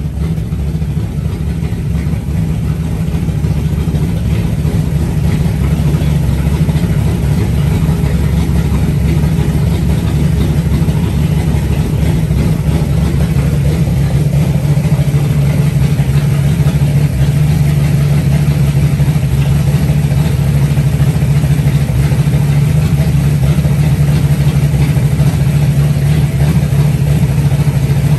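Freshly built 360 stroker V8 running steadily on its first start-up, a little louder after the first few seconds; its valves still need adjusting to take out lash.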